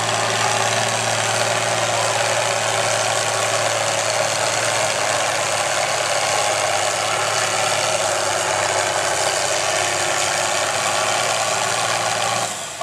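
Farm stock pulling tractor's diesel engine running hard and steady during a pull, then cutting off abruptly near the end.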